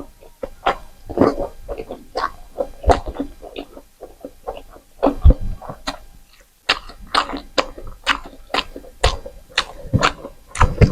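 Close-up eating sounds: wet chewing with lip smacks and mouth clicks coming irregularly, a few each second.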